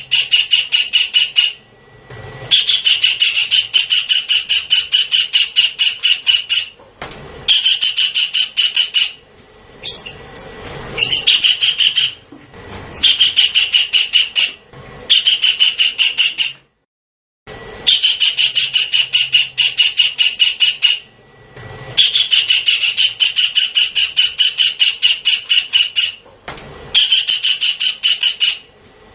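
Javan kingfisher calling in loud, rapid rattling series of sharp, high notes, each run lasting a few seconds with short pauses between, repeated over and over as a bird-lure recording.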